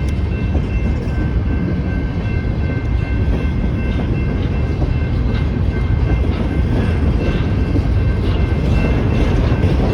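Loaded coal train cars rolling past a grade crossing: a heavy, steady low rumble, with scattered wheel clicks that become more frequent in the second half. Over it, the crossing's General Signals electronic bell sounds repeated tones.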